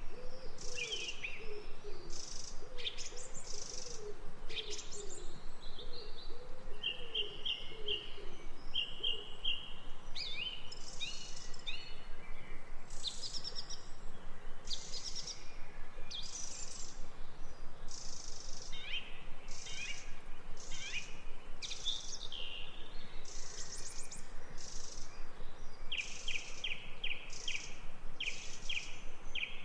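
Several birds singing and calling over each other: short high chirps and quick trills throughout, with a lower-pitched call repeating through the first nine seconds or so, over a faint steady outdoor hiss.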